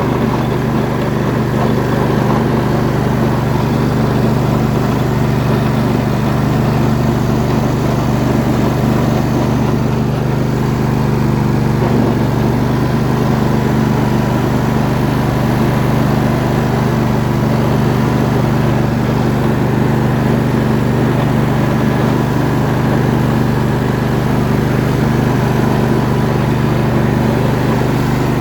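MTD White lawn tractor's engine running at a steady speed as the tractor drives, with a chattering from a stuck belt idler underneath.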